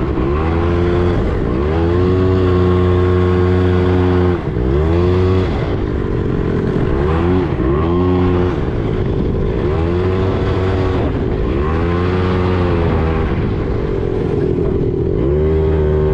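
Quad bike engine running, its pitch repeatedly dropping and climbing again as the throttle is eased and opened, with a few short steady stretches in between.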